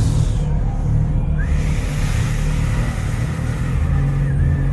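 Kawasaki Z900RS Cafe's inline-four engine running at low road speed, a steady low rumble. A rushing noise comes in about a second and a half in.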